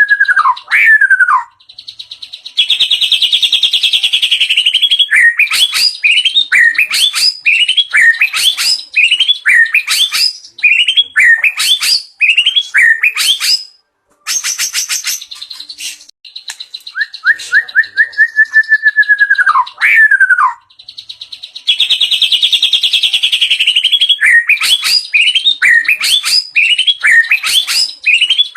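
White-rumped shama (murai batu) in loud, varied song full of fill-in phrases: a slurred whistle that drops at its end, a fast buzzy trill, and quick runs of sharp down-slurred notes, the sequence coming round again about halfway through.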